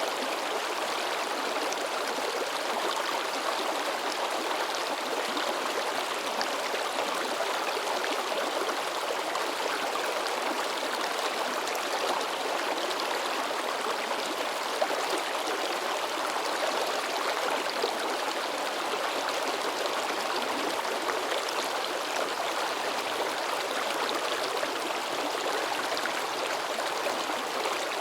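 A shallow river babbling and splashing over rocks: a steady rushing of water with small splashes, one or two slightly louder near the middle.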